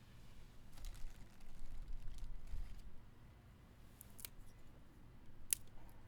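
A few sharp, separate clicks or snaps, the clearest about four and five and a half seconds in, over faint low background noise.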